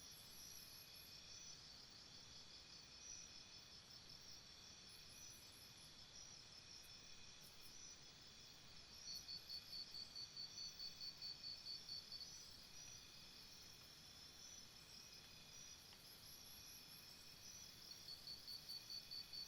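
Faint chorus of insects trilling together in several overlapping high-pitched pulsing trills. A louder trill with several pulses a second starts about nine seconds in for a few seconds, then returns near the end.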